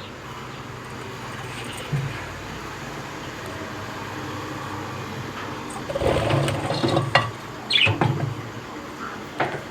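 Steady hiss, then a few short, high lovebird chirps around seven to eight seconds in.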